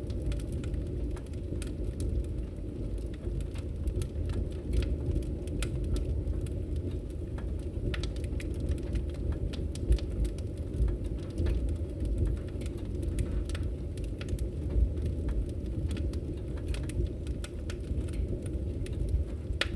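Log fire in a fireplace crackling, with many irregular sharp pops over a steady low rumble of the flames.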